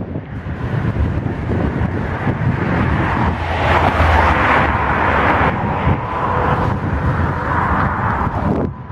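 Freight train of autorack cars rolling past: a steady rumble and clatter of steel wheels on the rails, loudest about halfway through.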